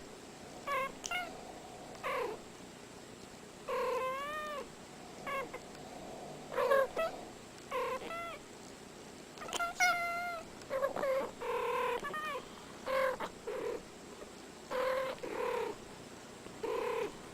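Cat meowing over and over in short calls, some arching up and down in pitch, at irregular gaps of about half a second to a second.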